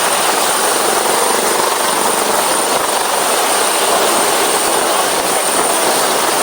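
Firefighting helicopter hovering close by: a loud, steady rotor and engine noise with a thin high whine over it, unchanging throughout.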